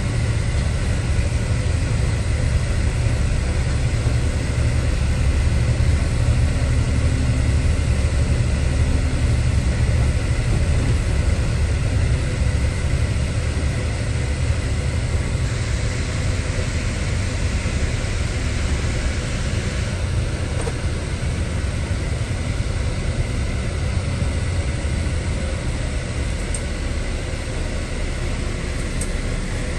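Steady low rumble inside an Airbus A320 cabin, the air-conditioning airflow and aircraft systems running evenly with a few faint steady tones over it.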